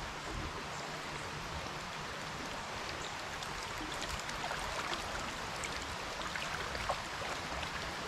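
Steady rush of flowing creek water, with a few faint scattered ticks.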